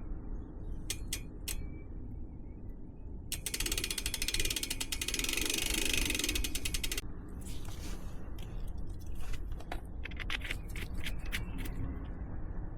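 Bicycle freehub ratchet clicking as the drivetrain is turned. A few single clicks come first, then a few seconds of fast, even ticking about three seconds in, then slower, irregular clicks.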